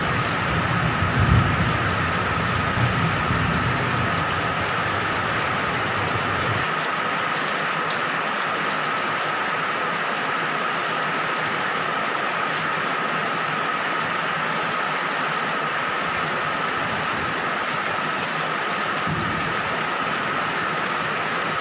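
Steady heavy rain falling, with a thin steady tone running over it. A low rumble fades out about six or seven seconds in.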